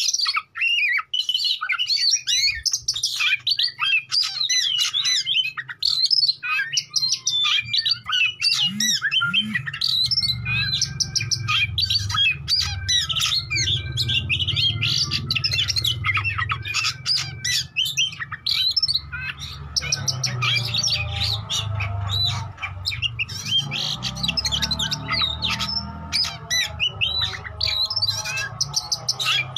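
Oriental magpie-robin (kacer) singing continuously: a rapid, unbroken string of varied whistles, trills and harsh chattering notes. A low hum joins underneath about a third of the way in.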